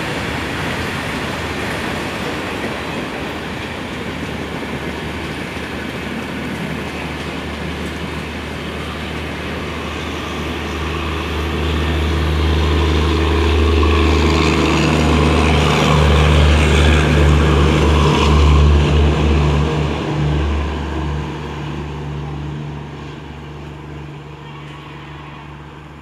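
Passenger train of LHB coaches running past at speed, with a steady rush of wheels on rail. Around the middle, the end-of-train power car with its diesel generator goes by, adding a loud, steady low hum. The sound then fades as the train moves away.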